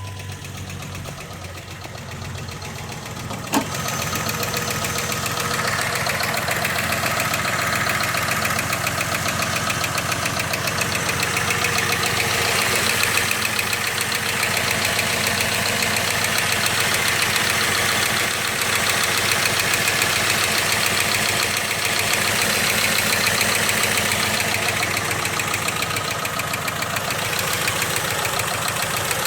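Jeep engine idling, with a fast, even ticking running through it. A sharp click comes about three and a half seconds in, and the engine sound is louder from then on.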